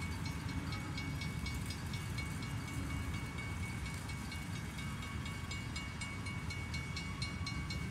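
Freight train of covered hopper cars rolling steadily past a grade crossing: a constant low rumble with a thin, steady high tone and rapid, regular ticking over it.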